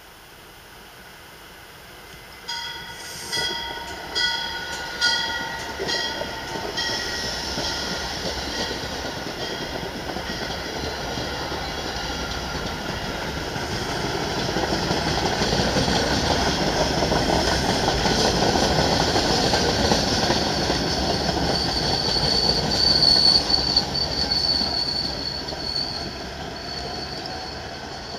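A passenger train approaches, sounding a warning signal in about six short, regular pulses, a little more than one a second. It then passes close by with a swelling rumble of wheels on rail. A high-pitched wheel squeal rises on the curved track before the noise fades near the end.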